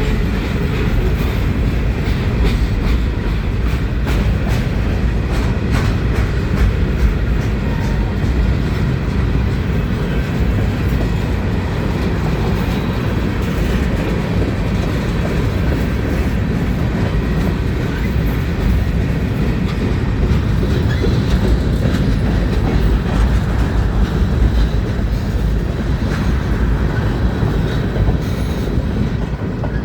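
Freight cars of a manifest train rolling past in a steady low rumble, their wheels clacking over rail joints.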